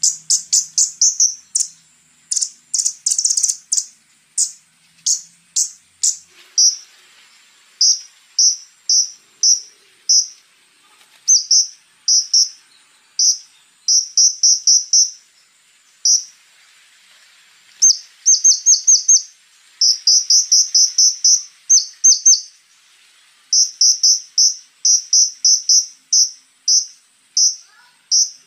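Konin bird calling: sharp, high notes in quick runs of several at a time, with short gaps between runs. A faint, steady, high cricket-like buzz runs underneath.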